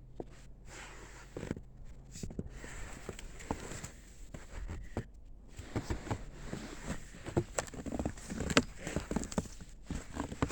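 Footsteps crunching in snow: an uneven run of steps, sparse at first and closer together and louder from about halfway through.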